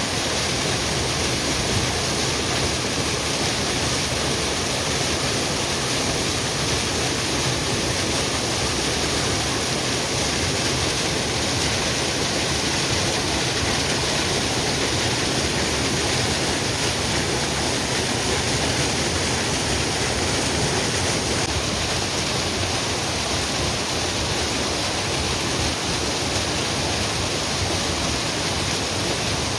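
Waterfall rushing, a loud, even, unbroken roar of falling water.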